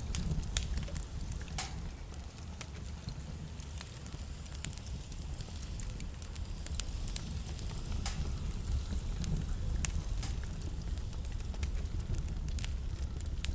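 Wood fire burning in a fireplace: a steady low rumble of flames with scattered crackles and a few sharper pops from the burning logs.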